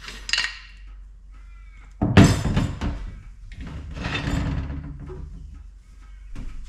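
Handling sounds at a slow cooker: a sudden heavy thud about two seconds in, then a few seconds of knocking and scraping.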